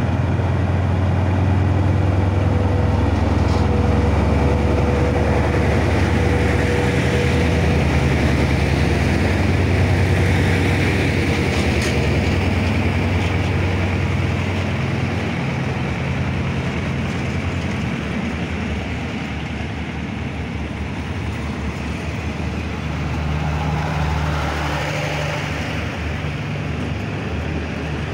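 Hitachi diesel-electric locomotive No. 4504 running close past with a deep engine drone. The drone fades after about fifteen seconds into the steady rumble of the passenger coaches rolling by on the rails.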